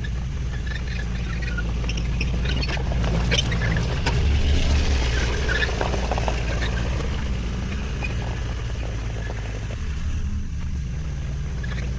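Komatsu mini excavator's engine running steadily, with high squeaks and scraping clatter, loudest a few seconds in.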